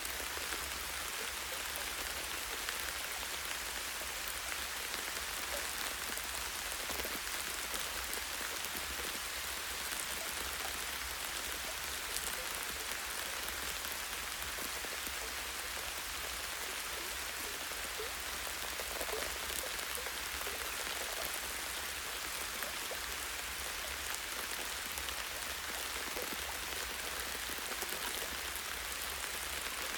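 Light rain falling steadily on forest foliage and branches: an even hiss of rain with many small scattered drop ticks.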